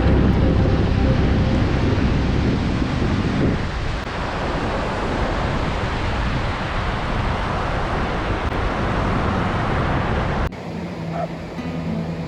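Ocean surf rushing and washing, heaviest over the first three or four seconds and then a steadier rush. It cuts off suddenly about ten seconds in, and soft music comes in.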